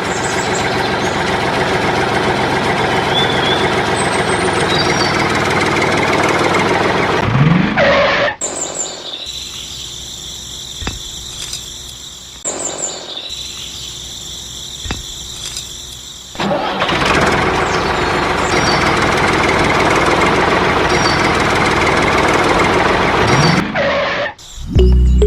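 Engine running steadily, dropping to a much quieter stretch with a few clicks between about 8 and 16 seconds in, then running loudly again.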